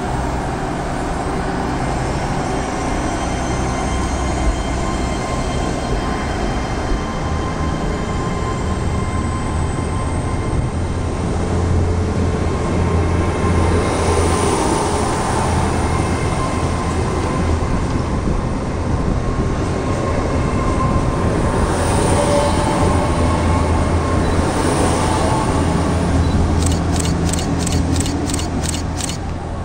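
Train running with a steady low rumble and rattle, getting louder about twelve seconds in. A quick run of faint high ticks comes near the end.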